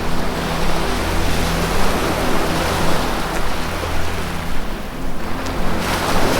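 Ocean surf washing steadily over a low, sustained drone of ambient music, with a fresh surge of wave noise near the end.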